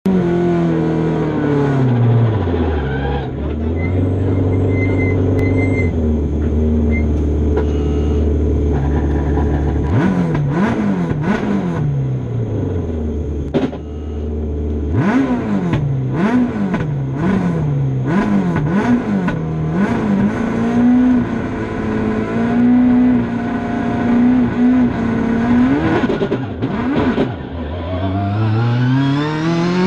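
Ford Fiesta rally car engine heard from inside the car, revving hard and dropping back through quick gear changes, with sharp cracks among the shifts. The pitch falls away early on and holds low for several seconds. It then saw-tooths up and down through the middle, holds a steady higher note, dips, and climbs again near the end.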